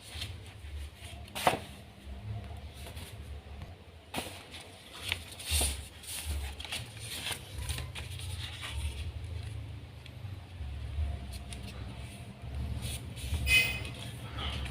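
Sheet of origami paper being handled, folded and creased by hand, making scattered crisp rustles and crackles. The sharpest come about a second and a half in and just before the end, over a low, uneven rumble.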